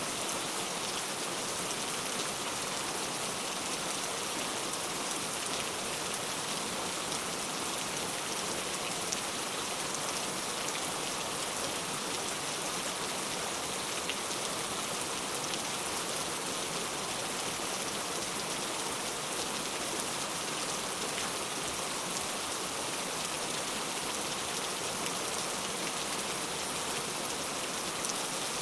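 Steady rain falling, an even hiss with fine patter of drops on surfaces.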